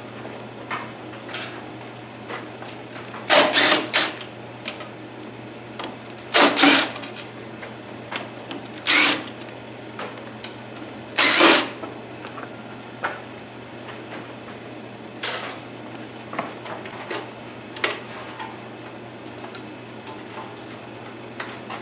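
Short clatters and scrapes of hands and tools working on metal parts of the sawmill, five louder ones spread through the first half and smaller clicks after, over a steady low hum.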